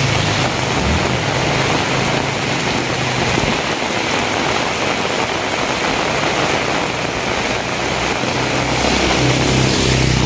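Steady hiss of heavy rain with a motor vehicle's low engine hum in it, heard at the start, fading through the middle and coming back louder near the end.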